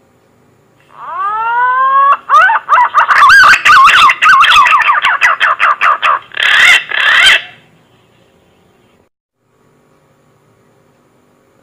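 Punai green pigeon song: a long rising whistle followed by a run of wavering, warbling whistled notes, ending in two harsher notes. It is a lure call meant to draw punai in.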